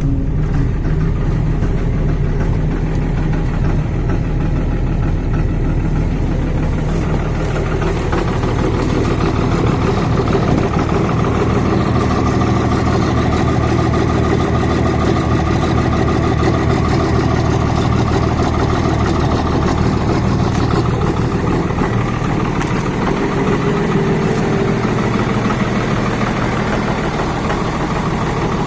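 Cold 1999 Dodge Ram 2500's 5.9-litre Cummins inline-six turbo-diesel idling with a steady diesel clatter. Its sound grows brighter about eight seconds in.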